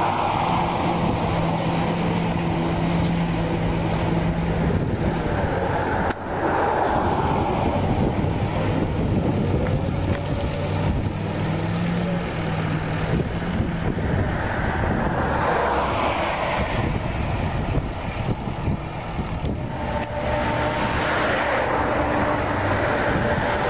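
Tracked dumper's engine running steadily, its pitch shifting up and down a few times as the machine works.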